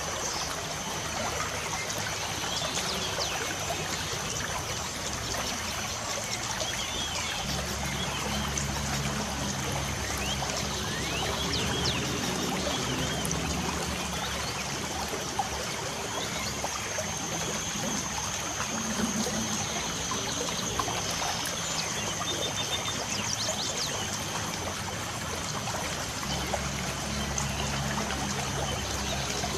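Steady light rain with birds chirping over it. A low rumble comes in about seven seconds in, fades, and returns near the end.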